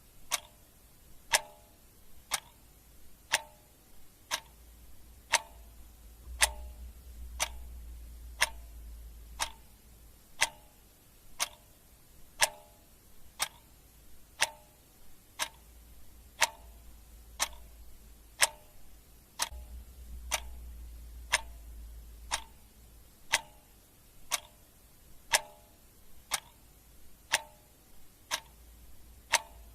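Clock ticking steadily at about one tick a second, the ticks alternating slightly in strength like a tick-tock.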